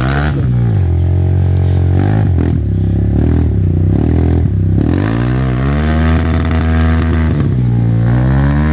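Trail motorcycle engine revving, throttled up and eased off again and again, so its pitch swoops up and down several times.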